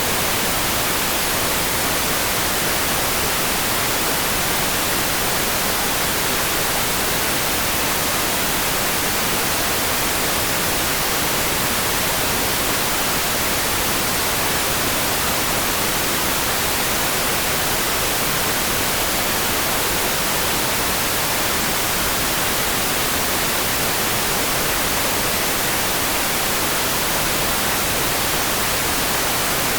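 Steady, even hiss like white noise, brightest in the treble, with no separate raindrops or patter standing out and no change in level.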